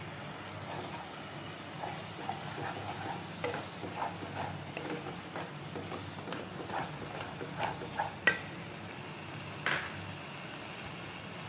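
Spiced onion-tomato masala sizzling gently in oil in a wok, being fried until the oil separates. A wooden spatula stirs and scrapes it with soft, irregular taps, and there is one sharper knock about three-quarters of the way through.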